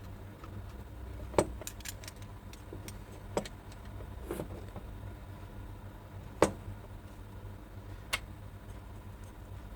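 Small hand tools clicking and tapping against a circuit board and the workbench, five sharp knocks spaced a second or two apart, over a low steady hum.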